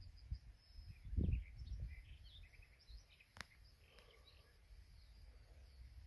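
Faint small birds chirping in short, scattered calls, mostly in the first half. A low rumble comes about a second in, and a single sharp click comes midway.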